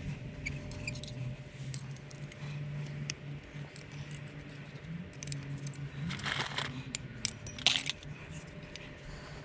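Small metal clicks and clinks of an Allen wrench against brake parts as a stubborn pin is pushed out of the brake assembly, with two louder bursts of metallic clatter about six and seven and a half seconds in.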